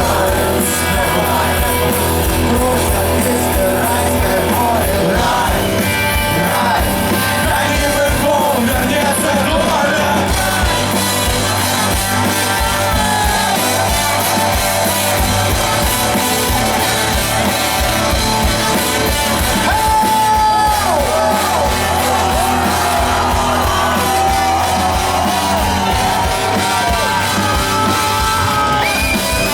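Live rock band playing loudly with a singer's vocals over a driving bass.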